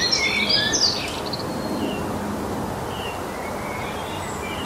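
Birdsong ambience: a flurry of quick, sharp chirps in the first second, then only scattered faint chirps over a steady background hiss.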